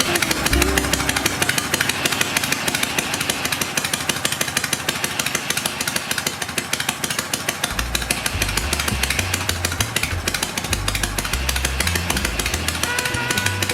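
Harley-Davidson Shovelhead V-twin engine running with a rapid, steady beat. Background music with a bass line comes in about halfway through.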